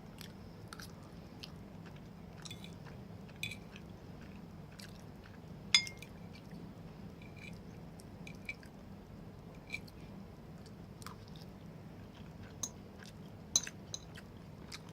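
A person chewing a mouthful of creamy macaroni casserole close to the microphone, with small wet mouth clicks. A few sharp clinks, the loudest about six seconds in and another near the end, from a utensil against the dish.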